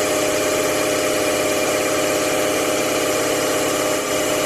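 An engine idling steadily with a fast, even pulse, cutting off abruptly at the end.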